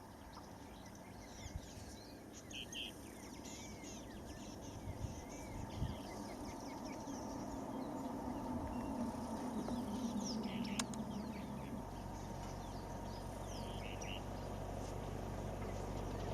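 Birds chirping, many short high calls scattered throughout, over a steady background noise that slowly grows louder.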